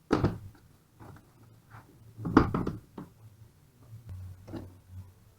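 Metal parts and tools being handled on a workbench: a few separate clinks and knocks, the loudest near the start and a cluster about two and a half seconds in.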